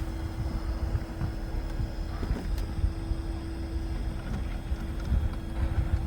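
Electric drive motor of a 1/6-scale Axial SCX6 Honcho RC rock crawler giving a steady, even-pitched whine, with wind rumbling on the microphone.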